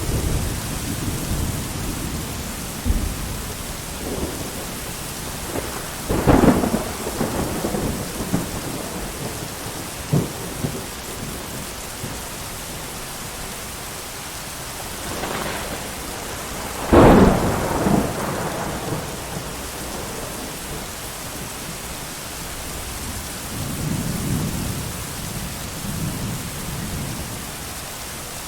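Steady heavy rain with thunder: sharp thunderclaps about six seconds in and again at about seventeen seconds, with lower rolling rumbles at the start and near the end.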